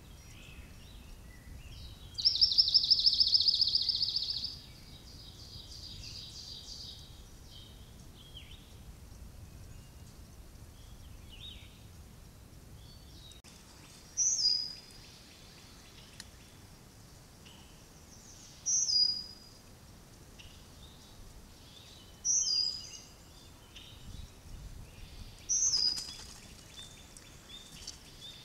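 Songbirds singing: a fast, even trill of rapid high notes starting about two seconds in and lasting about two seconds, then later a bird repeating a short, high, down-slurred note every three to four seconds, over a faint steady hiss.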